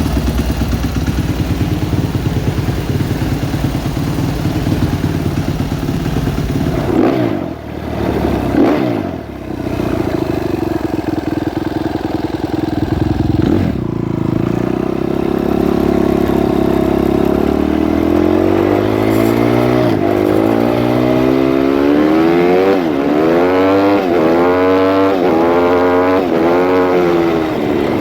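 Suzuki RM-Z250's single-cylinder four-stroke engine running with its cam timing corrected: steady at first, blipped a few times about a third of the way in, then revved up and down over and over, about once a second, through the last third.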